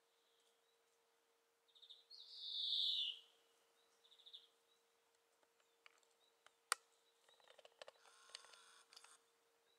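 A bird calling: a loud, high, downward-sweeping rasp about two seconds in, with short quick trills just before and after it. Later comes a single sharp click, then about two seconds of faint buzzing, over a steady faint hum.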